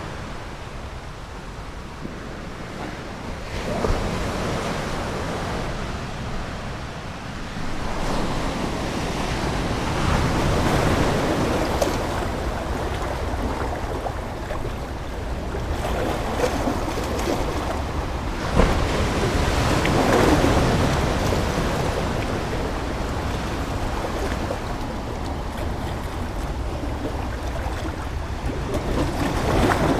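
Ocean waves breaking and washing on a shore in a continuous surf. The rush swells and eases every few seconds.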